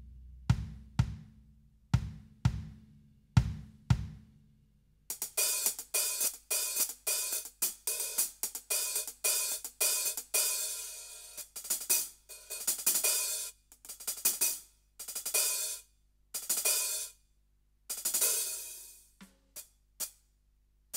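Roland TD-17KVX electronic drum kit sounds being played: a few drum hits in the first four seconds, then from about five seconds a run of cymbal and hi-hat strikes, some left to ring out.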